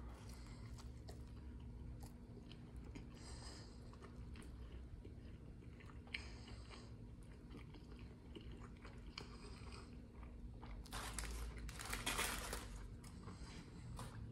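A person chewing a mouthful of a beef burger on a bun: faint chewing in bursts every few seconds, loudest about eleven to thirteen seconds in.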